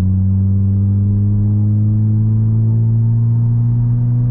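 Straight-piped 2020 Nissan Altima's exhaust droning under acceleration, its pitch climbing slowly as sport mode holds the gear longer before shifting.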